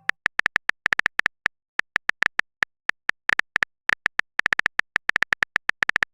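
Phone keyboard typing sound effect: a quick, uneven run of short, identical clicks, several a second with brief pauses between bursts, as a message is typed out.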